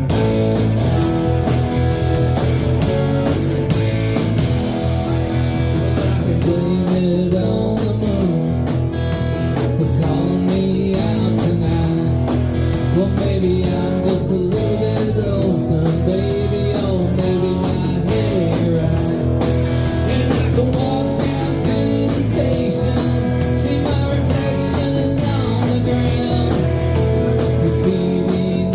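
Rock band playing a song: guitar over bass and drums, with a voice singing.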